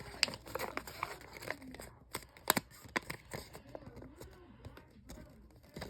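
A sheet of paper being folded and creased by hand: crinkling and rustling with short sharp snaps, the loudest about two and a half seconds in.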